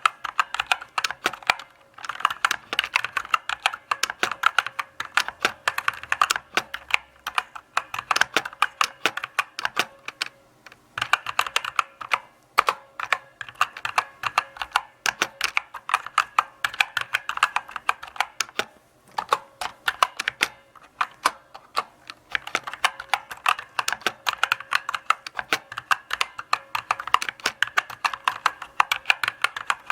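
Mechanical keyboard typed at a slow, relaxed pace: a continuous run of key clicks, with a few short pauses.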